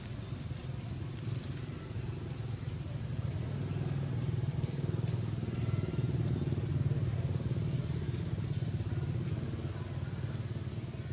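A motor engine running with a steady low rumble, growing louder through the middle and easing off near the end.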